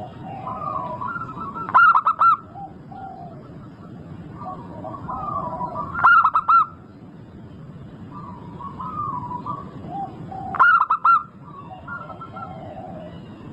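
Zebra dove (perkutut) singing: a loud phrase of three or four quick cooing notes repeated about every four seconds, three times, with softer bird calls warbling in between.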